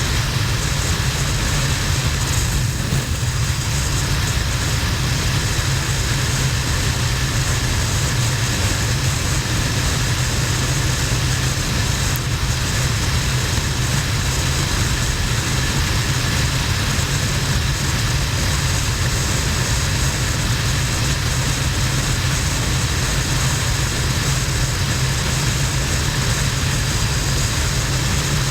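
Harley-Davidson XL1200N Nightster's air-cooled 1200 cc V-twin running steadily at cruising speed, with a constant rush of wind noise over the camera.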